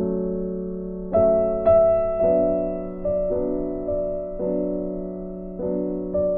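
Background piano music: slow, sustained chords struck about once a second, each dying away.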